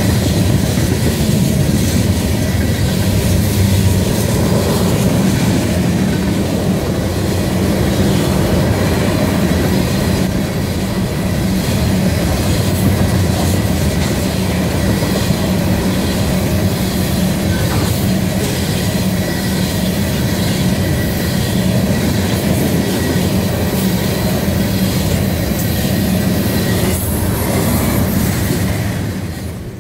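Freight train of tank cars rolling past, a steady loud noise of steel wheels on rail with a few clicks from the wheels over the track.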